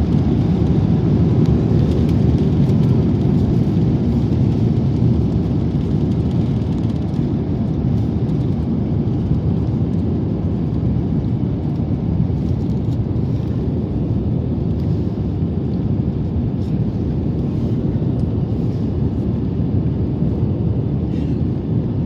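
Steady loud rumble of an Airbus A350-900's Rolls-Royce Trent XWB engines and airflow at takeoff power, heard from inside the economy cabin, easing slightly toward the end.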